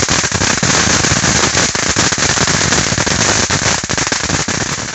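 Crackling fountain firework burning: a loud, dense rush of hiss packed with rapid crackles. It cuts off suddenly near the end.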